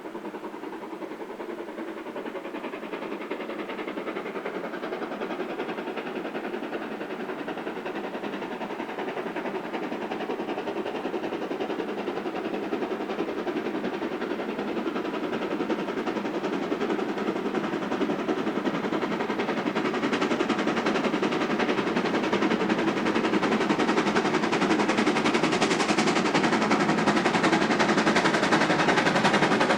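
Steam locomotive working a train, its exhaust beats coming fast and close together and growing steadily louder as it approaches.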